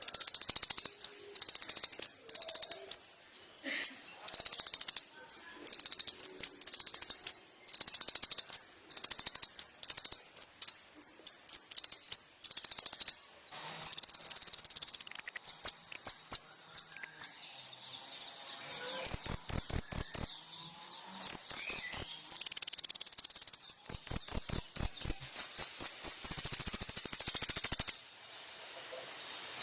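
Kolibri ninja (Van Hasselt's sunbird) song: very high, fast trills in short phrases of about half a second each, repeated with brief gaps, with a few longer unbroken trills in the second half.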